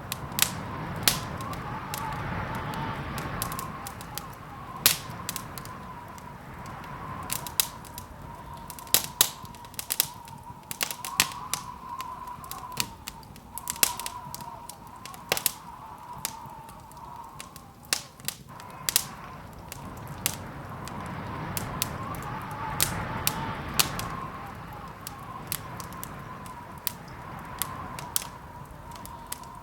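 Wood fire crackling, with irregular sharp pops and snaps over a low rumble of flames that swells twice, and a faint steady high tone underneath.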